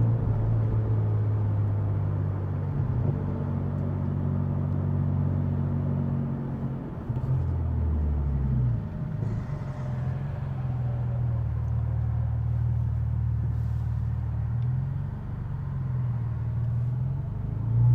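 Infiniti Q60's tuned twin-turbo V6 running at low, steady revs while cruising. The engine note dips and picks up again a couple of times.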